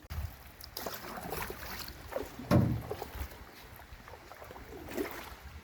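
Canoe moving on river current, with water noise, wind on the microphone and scattered knocks against the hull; one louder thump about two and a half seconds in.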